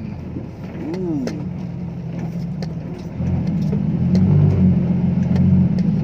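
Diesel engine of a six-wheel dump truck running, stepping up in loudness about three seconds in as it accelerates, with scattered light clicks and rattles.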